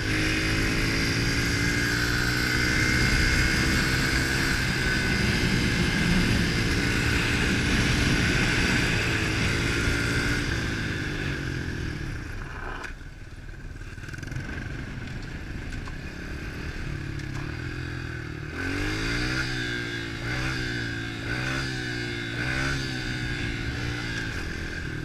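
A 110 cc pit bike's single-cylinder four-stroke engine running under way at steady revs, then easing off to lower revs about halfway through. Near the end the revs rise and fall in several short swells as the throttle is worked on and off.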